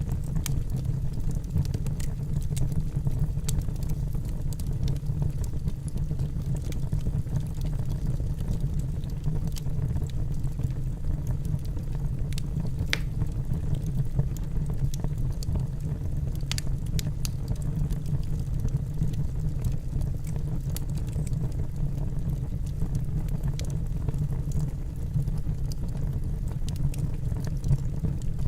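Wood fire burning in a fireplace: a steady low rumble of the flames with scattered, irregular crackles and pops from the burning logs, a few sharper pops about halfway through.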